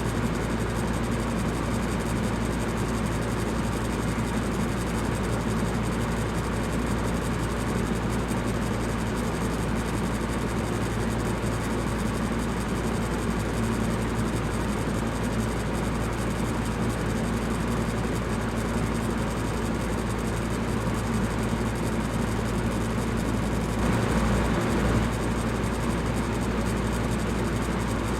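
Electric fan running steadily: an even rushing noise over a low motor hum.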